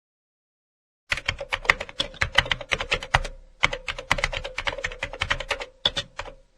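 Typing on a computer keyboard: rapid key clicks in two quick runs with a short pause between them, then a few more keystrokes near the end.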